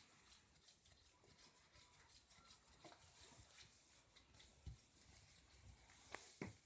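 Faint tapping and scratching from a pet parrot, with two sharper taps near the end.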